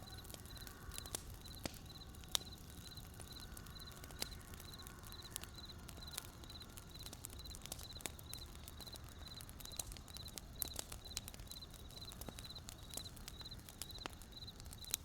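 Wood campfire crackling with irregular sharp pops, over a cricket chirping steadily at about two chirps a second.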